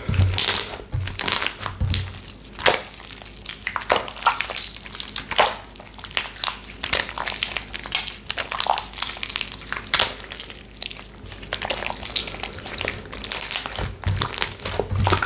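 Hands squeezing and poking slime, giving an irregular run of crackling, popping clicks.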